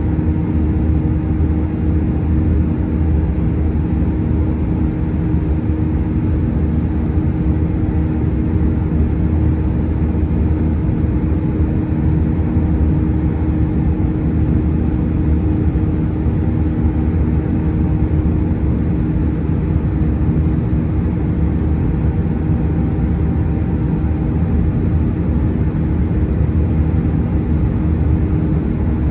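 Steady engine and airflow noise of an Airbus A320-211 with CFM56 engines, heard inside the passenger cabin: a loud, even low rumble with a constant hum.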